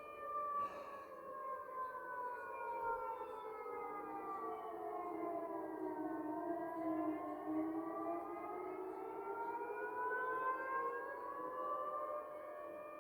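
Air-raid siren wailing: its tone sinks slowly for about six seconds, then rises again and levels off to a steady high note near the end. A brief knock sounds about half a second in.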